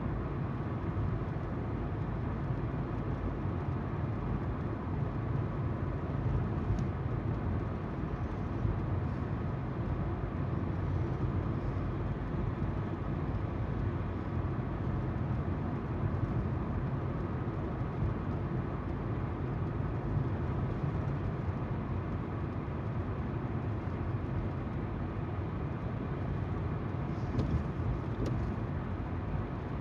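A car driving at a steady speed: constant tyre noise from the road with a steady low engine hum. A couple of faint clicks come near the end.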